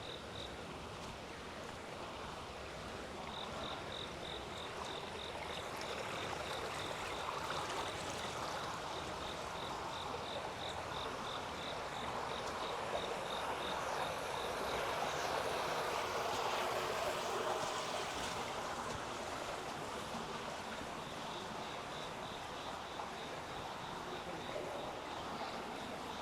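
Running water rushing steadily, growing louder toward the middle and then fading again. An insect chirps in a fast, even series of short high notes, stopping partway through and starting again near the end.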